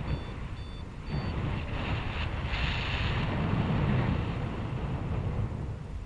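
Airflow buffeting the microphone of a flying paraglider, a rushing noise that grows louder after about a second. Three short, evenly spaced high beeps sound in the first second or so, like a flight variometer signalling lift.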